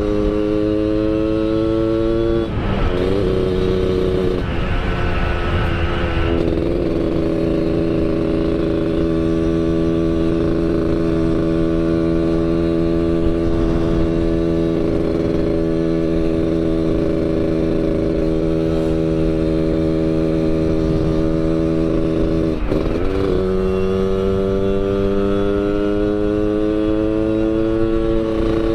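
Yamaha RX-King two-stroke single running through an under-belly expansion-chamber exhaust tuned for the Medan-style 'ngorok' snoring note, under way on the road. The note breaks off briefly about two and a half seconds in, holds a steady pitch for most of the time, breaks again about six seconds before the end and then climbs as it accelerates.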